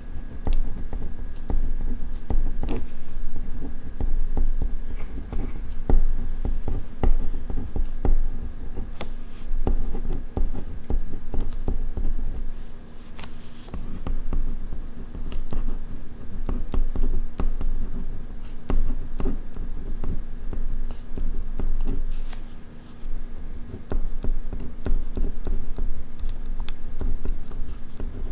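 Ballpoint pen writing on paper: a continuous, irregular run of small scratches and taps as the pen strokes.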